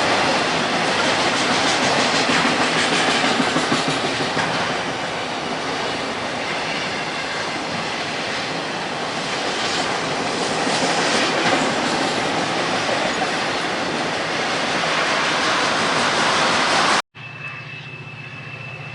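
Railroad cars of a freight train rolling past close by: a steady rush of steel wheels on rail with clicking over the rail joints. About two seconds before the end it cuts off abruptly to a quieter steady hum with a thin high tone.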